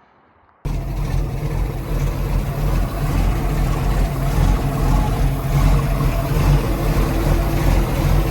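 The 1998 Crownline 225 CCR's inboard engine running steadily with a deep note. It cuts in abruptly about half a second in, with no cranking heard.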